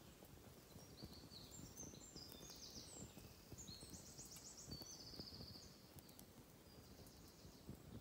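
Faint woodland ambience: a songbird sings a series of rapid, high trilled phrases, stepping between pitches, over a low rustle.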